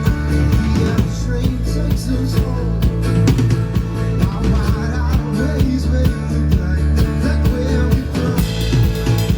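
Live rock band playing over a PA: drum kit, guitar and bass.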